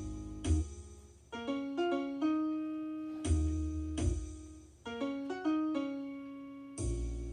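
Piano playing: chords and single notes over deep bass notes, struck every half second to a second and each left to ring and fade.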